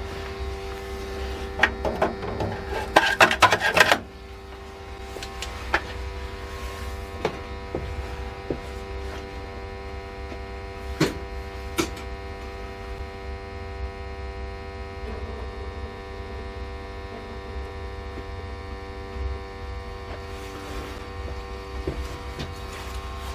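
A steady machine hum with a low rumble and several steady tones. A burst of loud rattling clatter comes about two to four seconds in, and a few sharp knocks follow later.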